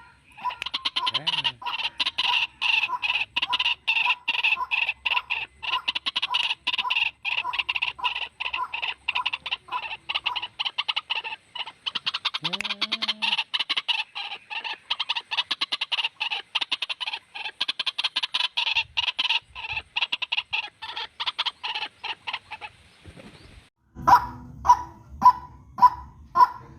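White-breasted waterhen calling: a fast, dense run of repeated harsh notes that breaks off briefly near the end, then resumes as louder, evenly spaced notes about two a second.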